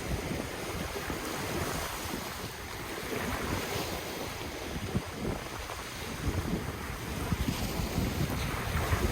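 Ocean surf washing continuously, with wind buffeting the microphone in low, irregular gusts.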